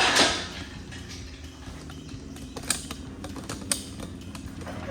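Hand work on tools and metal parts: a brief rustling swell at the start, then scattered light clicks and creaks.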